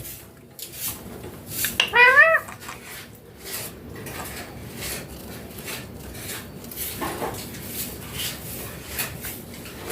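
A parrot gives one short, loud call with a rising-then-falling pitch about two seconds in, followed by scattered light clinking and knocking like dishes being handled.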